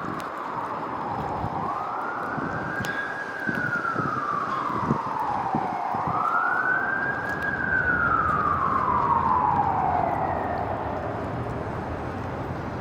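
Emergency vehicle siren wailing in slow rising and falling sweeps, about one up-and-down cycle every four to five seconds, fading away near the end over steady street noise.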